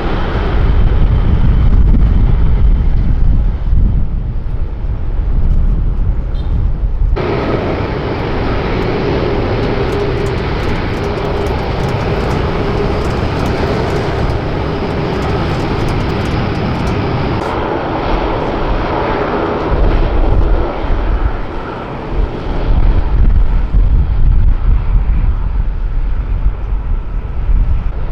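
Jet airliner engines running loud at close range, a deep rumble with a roaring hiss. About seven seconds in the sound changes suddenly to a steadier engine whine with a held tone, and the deep rumble swells again later.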